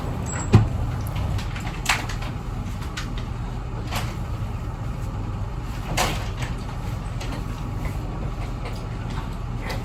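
A steady low rumble with a few sharp knocks and clicks, the loudest a thump about half a second in.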